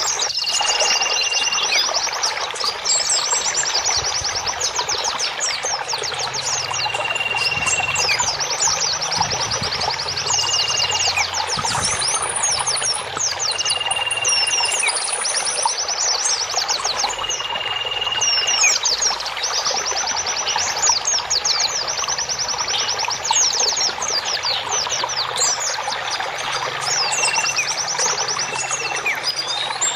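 Many small songbirds chirping and trilling over a steady rush of flowing water. A short, high, level whistle recurs every few seconds among quick repeated trill notes.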